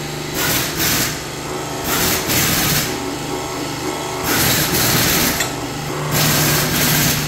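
Workshop press and tools working a worn rear suspension bushing out of an Opel Insignia B part: several bursts of noise, each about a second long or less, over a steady low machine hum.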